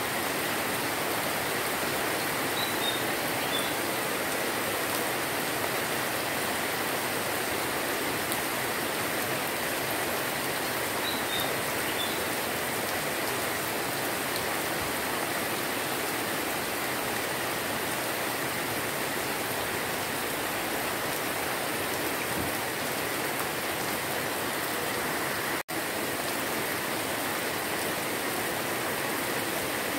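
Steady rain falling on broad banana and garden leaves and grass, an even hiss with no let-up. A couple of faint high chirps come through it, about three and eleven seconds in.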